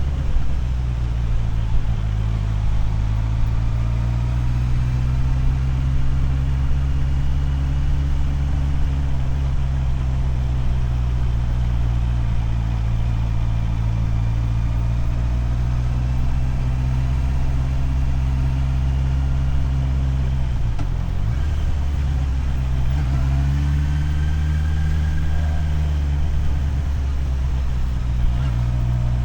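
Motorcycle engine running steadily while riding, over a steady hiss. About two-thirds of the way through, the revs drop briefly, then climb again.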